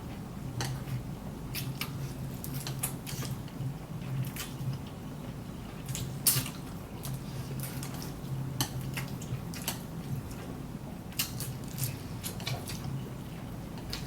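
Close-up eating sounds of spicy instant noodles being chewed and slurped: irregular small wet mouth clicks and smacks, with no steady rhythm.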